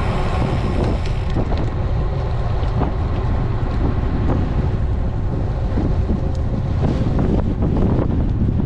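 Wind buffeting an action camera's microphone on a moving road bike: a steady low rumble, with scattered small clicks and knocks.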